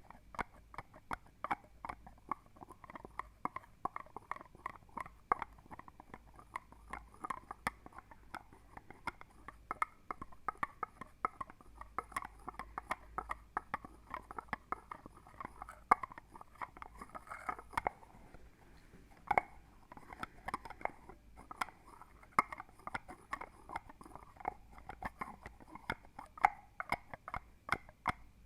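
ASMR wet clicking, close to the microphone: a quick, irregular stream of sharp, moist clicks, several a second, with a few louder ones.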